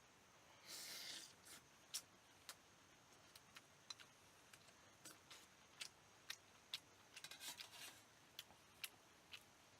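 Scattered small, sharp clicks and taps, a dozen or more at uneven spacing, with a short scratchy rustle about a second in and another near the end, over near silence.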